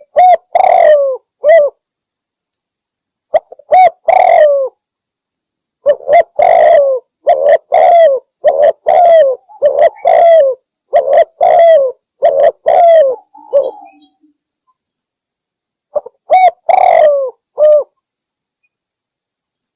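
Spotted dove (Javan derkuku) cooing loudly in repeated phrases of falling coo notes: a short phrase at the start, another a few seconds later, a long unbroken run of coos through the middle, and one more short phrase near the end.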